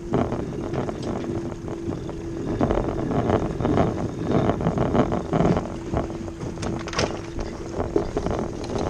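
Wind buffeting the microphone and water rushing and splashing against the hull of a sailing boat under way, with scattered knocks and a steady faint hum.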